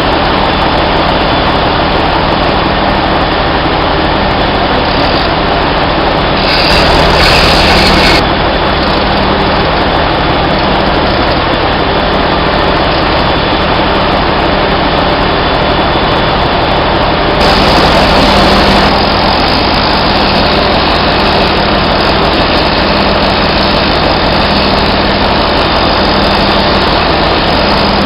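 Loud, steady drone of heavy machinery running, with a constant low hum underneath; it grows a little louder and brighter twice, briefly.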